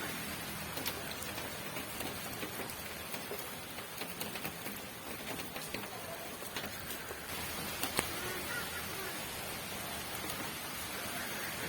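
Steady rain falling, with scattered drops tapping on a surface and one sharper tap about two-thirds of the way through.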